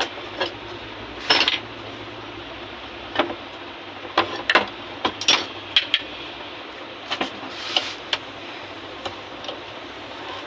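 Irregular sharp clicks and light knocks of small tools and hard parts being handled while harmonium keys are worked on, over a steady background hiss. The loudest knocks come about a second in and in a cluster around the middle.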